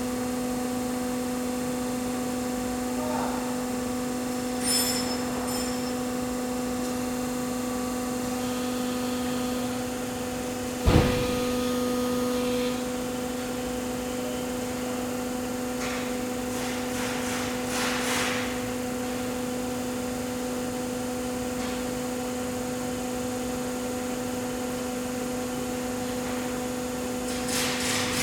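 Baykal APHS-Compact 240-ton hydraulic press brake running with a steady hum from its pump unit. About eleven seconds in there is one sharp knock, followed by a brief change in the hum, and a few fainter clicks and rattles come later.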